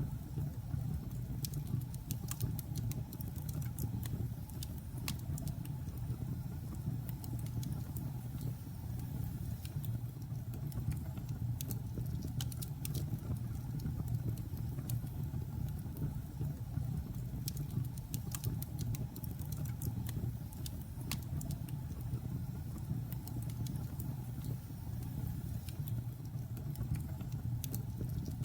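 Logs burning in a fireplace: a steady low rumble of the fire with frequent, irregular sharp crackles and pops from the wood.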